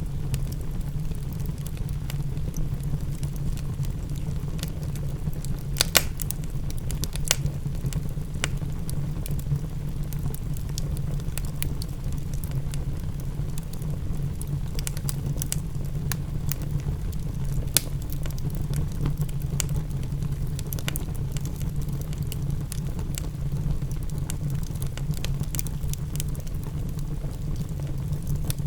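Wood fire crackling in a fireplace, with irregular sharp pops scattered over a steady low rumble. A few louder pops come about six, seven and eighteen seconds in.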